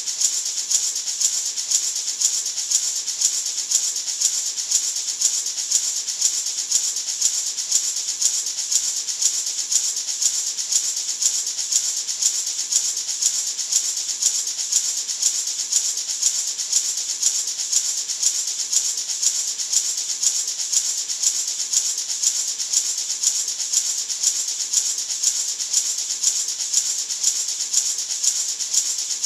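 Gourd maraca shaken steadily in an even rhythm, about two accented shakes a second, its seeds making a bright, hissing rattle.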